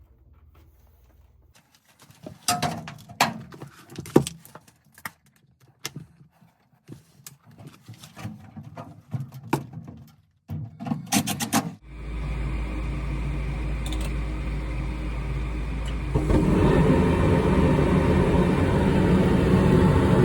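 Handling knocks and clicks on the furnace cabinet. Then, about twelve seconds in, the 2011 Goodman furnace starts up with a steady motor hum that steps up louder about four seconds later.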